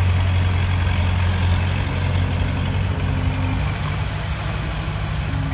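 Heavy diesel earthmoving machinery running with a steady low engine drone and a broad mechanical rumble.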